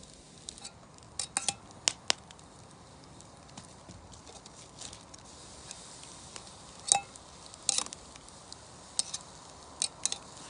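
Camp cookware and utensils being handled: scattered light clicks and taps, with one ringing metallic clink about seven seconds in.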